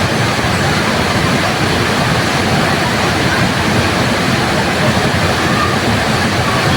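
Waterfall pouring steadily: a loud, even rush of falling water with a deep low rumble beneath it.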